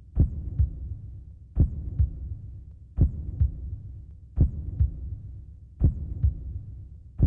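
Heartbeat sound effect: a slow, steady double thump (lub-dub) about every 1.4 seconds over a low hum.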